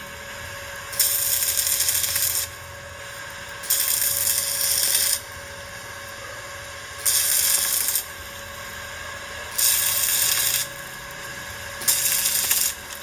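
Welding arc struck in a series of short runs: five bursts of crackling, sizzling hiss, each a second or so long, a couple of seconds apart.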